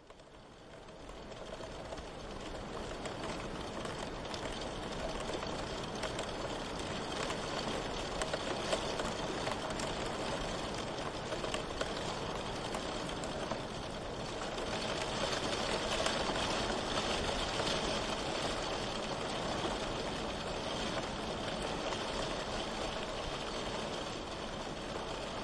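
Steady rain falling, a dense hiss with scattered drop ticks, fading in over the first two seconds and swelling slightly past the middle.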